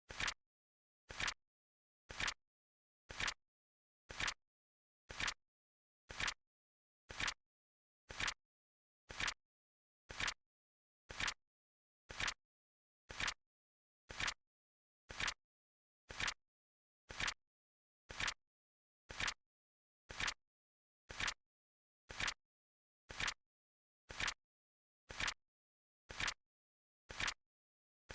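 Flip-clock flap sound effect clicking once a second with an even, steady tick, each click a quick double snap.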